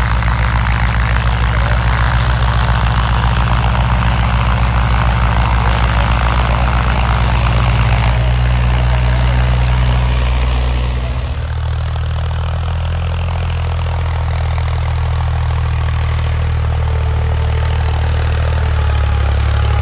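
Tractor diesel engine running steadily, its note changing about eleven seconds in as the engine speed shifts.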